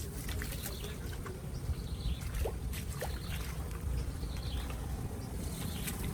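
Water trickling and pouring, over a steady low rumble, with a few small clicks and knocks scattered through.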